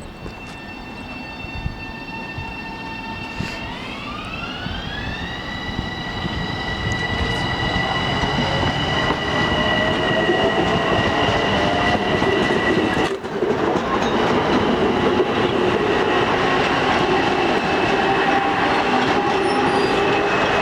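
LIRR M7 electric train running, its electric propulsion whine gliding up in pitch about four seconds in and then holding steady. Wheel and rail noise grows steadily louder as the train comes closer.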